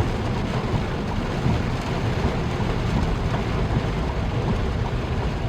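Steady low rumble and hiss of a car moving on a wet road, heard inside the cabin.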